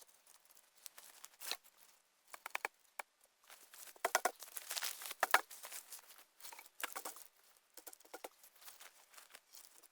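Dry branches and twigs rustling and crackling in irregular bursts as a knocked-over makeshift lounger of branches is lifted back up, loudest about four to five and a half seconds in.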